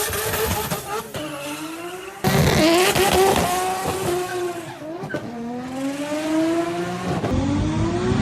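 Turbocharged Nissan Skyline RB26 straight-six engines accelerating hard, the engine pitch climbing and then dropping at each gear change, across clips that cut abruptly, one about two seconds in.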